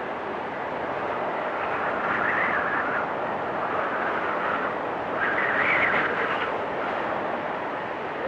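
Storm wind blowing steadily, rising into a higher whistling gust about two seconds in and a louder one about five seconds in.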